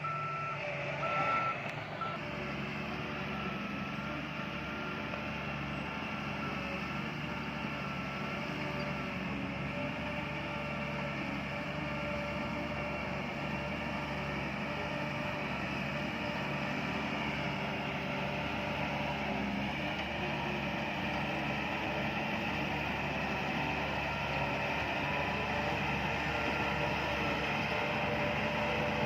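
Heavy earthmoving machinery's diesel engine running steadily under load, with a reversing alarm beeping about once a second during the first couple of seconds.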